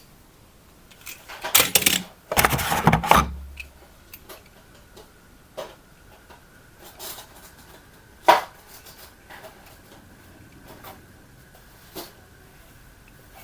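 Hard objects being handled: two loud clattering, rustling bursts in the first few seconds, then scattered single clicks and knocks, over a faint steady high-pitched tone.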